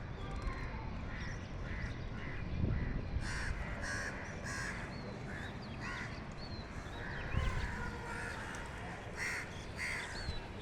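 Crows cawing over and over, many short harsh calls in quick succession over a steady low background noise. This is the calling of crows chasing a hawk.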